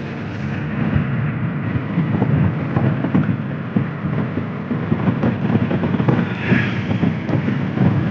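Steady low rumble with irregular knocks and bumps, as from riding in a moving vehicle on a rough road, with wind on the microphone.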